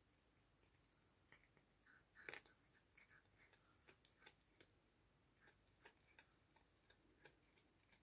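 Faint, irregular clicks and light scratchy taps, loudest in a short cluster a little over two seconds in.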